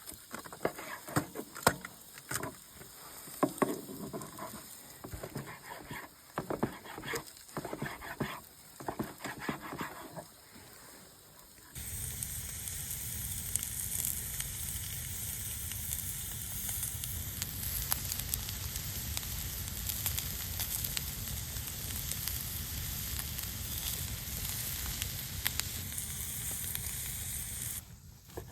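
Food sizzling as it fries, with irregular clicks and knocks during the first twelve seconds. About twelve seconds in, the sound switches abruptly to a steadier, louder sizzle.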